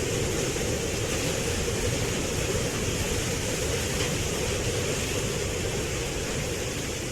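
Steady rushing noise of flash-flood water, an even wash with a deep low rumble and no breaks.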